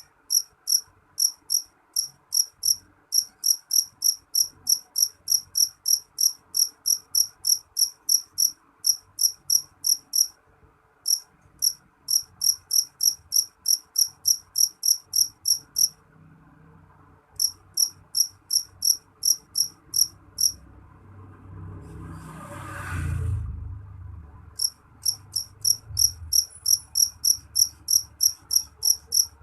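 Cricket chirping steadily at about four chirps a second, with a few short pauses. About twenty seconds in, the chirping stops for a few seconds while a low rushing sound swells up and fades away.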